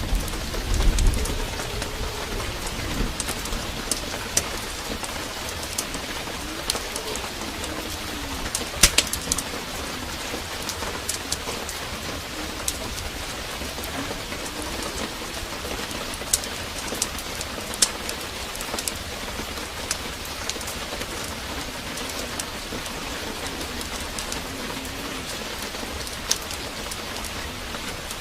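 Steady heavy rain with sharp crackles and pops from a wood fire in a fireplace, and a low rumble of thunder about a second in. A low wavering sound rises and falls every few seconds beneath the rain.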